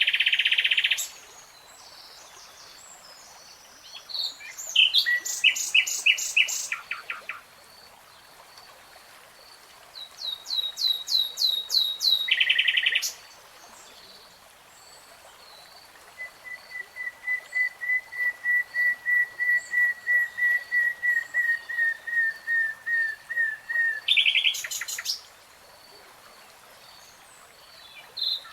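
A songbird singing in separate phrases a few seconds apart: fast trills and rattling runs, then a long series of repeated whistled notes, about three a second, that swells in loudness and ends in a quick flourish. A faint, high, steady pulsing runs in the background.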